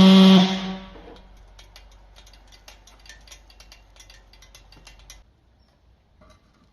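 Gasoline model pulse jet engine running with a loud, steady buzz that cuts out abruptly about half a second in. A fast, irregular clicking follows for about four seconds, then stops.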